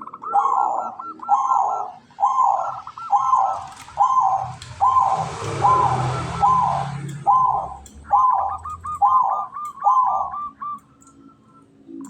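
Zebra dove (perkutut) cooing a long, even series of about a dozen notes, just over one a second. Each note is a quick rattling high part dropping into a lower coo.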